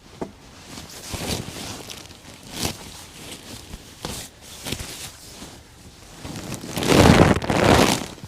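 Irregular rustling, bumps and knocks from someone moving about and handling gear, with a longer, louder rumbling rush about seven seconds in.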